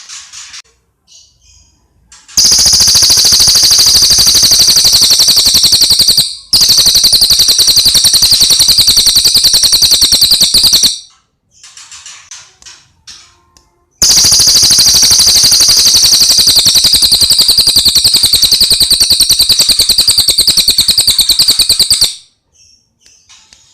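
Cililin song: short soft chirps alternating with two long, very rapid, high-pitched trills, the first about eight seconds with a brief break partway through, the second about eight seconds.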